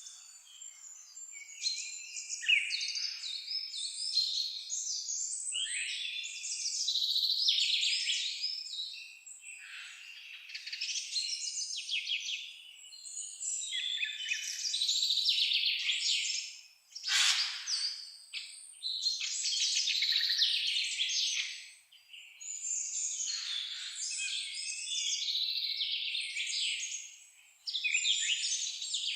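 Songbirds singing in a dense, overlapping chorus of high chirps and trills, with a short, sharp louder call about halfway through.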